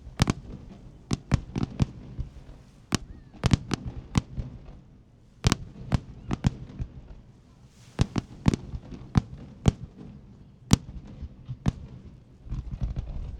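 Aerial fireworks bursting in an irregular series of sharp bangs, a few each second. Near the end they come in a denser run of rapid crackling pops.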